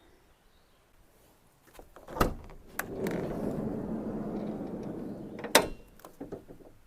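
Ram ProMaster van's sliding side door running along its track: a latch click, a rolling rumble lasting a couple of seconds, then a loud clunk as the door reaches the end of its travel.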